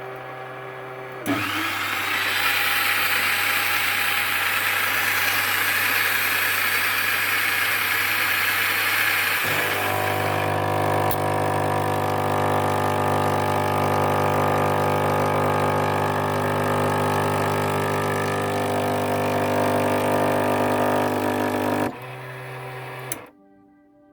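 Krups FPB145000P espresso machine's pump running with a steady hum and a hissing rush of water at first. The sound changes about a third of the way in to a more even, tonal drone, then dies away near the end. The machine is being tested with its compression-unit seals still damaged.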